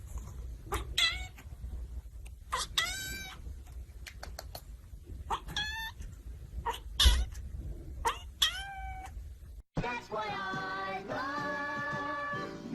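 A cat meowing about five times, separate calls a second or two apart with bending, falling pitch, the fourth the loudest. About three quarters of the way through it cuts to music.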